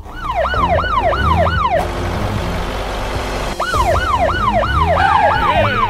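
Electronic police siren wailing up and down in quick sweeps, about three a second. It breaks off for nearly two seconds in the middle behind a rough, hissing noise, then starts again. A low rumble runs beneath.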